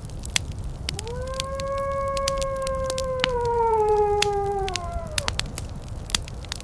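Wood fire crackling with sharp pops, while a single long howl rises in about a second in. The howl holds a steady pitch for a couple of seconds, then slides downward and fades out after about four seconds.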